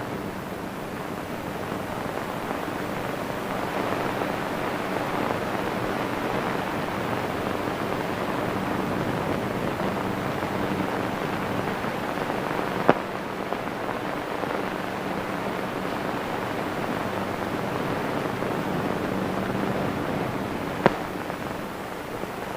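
Steady hiss and crackle of a 1930s optical film soundtrack with no dialogue, broken by two sharp pops, one past the middle and one near the end.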